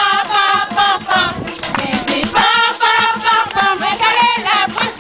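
A group of voices singing a traditional Creole song together, with a steady beat underneath.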